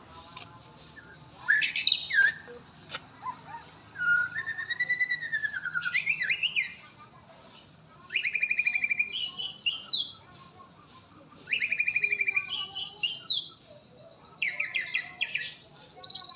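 Songbird singing a run of varied phrases: clear whistled notes, rapid trilled runs and high thin notes, with short gaps between them.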